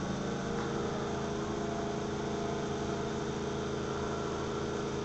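Vytek FX2 laser cutter running: a steady mechanical hum with several held tones, unchanging.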